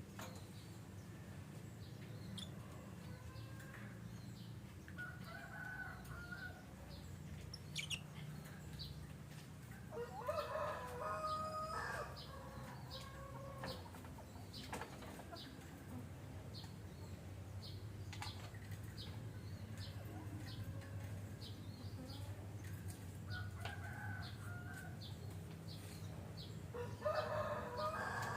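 Lovebirds chirping: short, high chirps repeat every second or so, with two louder bursts of lower, wavering calls about ten seconds in and near the end, over a steady low hum.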